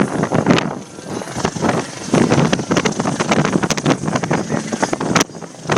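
Wind buffeting the microphone in irregular gusts over a steady rushing noise, with brief lulls about a second in and near the end.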